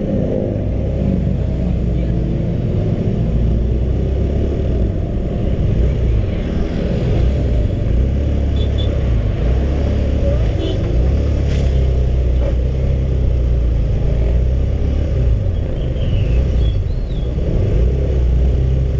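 Honda CB150R's single-cylinder engine running steadily while the motorcycle is ridden on the road, mixed with heavy wind rush over the microphone.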